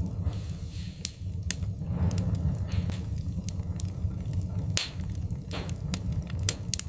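Wood fire crackling in a fireplace: irregular sharp pops and snaps, a few seconds apart, over a steady low rumble.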